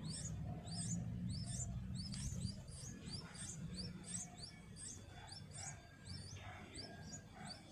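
A small bird chirping repeatedly: a steady run of short, high, rising chirps, two to three a second.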